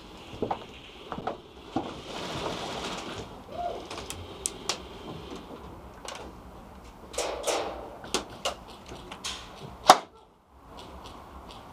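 Handling of an airsoft rifle and gear: scattered sharp clicks and knocks with bouts of rustling, and one much louder sharp click near the end.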